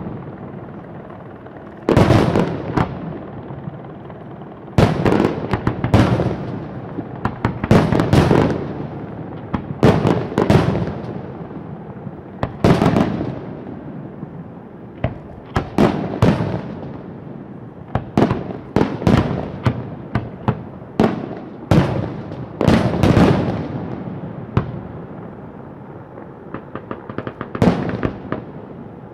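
Fireworks going off: loud bangs every second or two, each followed by a cluster of smaller cracks and a fading echo.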